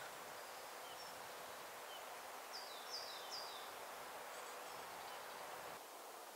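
Outdoor woodland ambience: a steady, faint hiss of background noise, with a small bird calling, three quick high chirps that fall in pitch about midway through and a few fainter chirps before them. The background drops slightly near the end.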